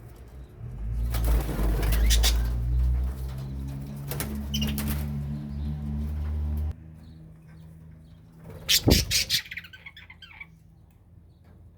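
Birds flapping their wings in short bursts, several times, over a low steady hum that cuts off about seven seconds in.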